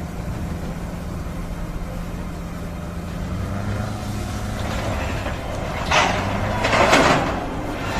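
A heavy vehicle's engine running steadily with a low hum. Two loud noisy bursts come about six and seven seconds in.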